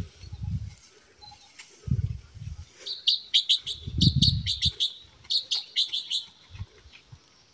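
A small bird chirping in quick runs of short high notes, in several bursts from about three seconds in until just past six seconds. Low rumbles come and go underneath.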